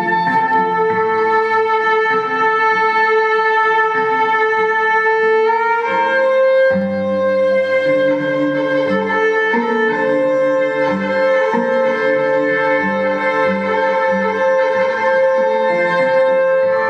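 Live violin music built up with a loop pedal: long bowed violin notes held over a lower repeating rhythmic figure. The held note steps up to a higher pitch about six seconds in.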